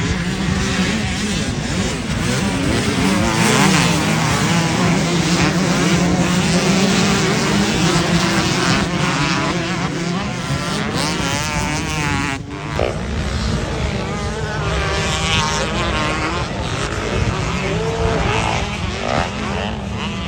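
Motocross dirt bikes racing, several engines revving up and down through the gears at once, with an abrupt cut about twelve seconds in.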